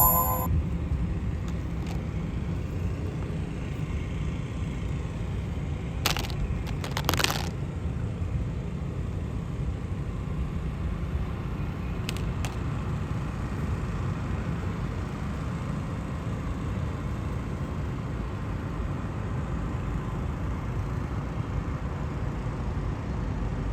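Steady low background rumble with a few brief clicks about six and seven seconds in.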